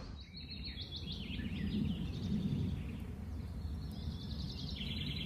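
Small birds chirping in quick runs of short high notes, over a steady low outdoor background noise.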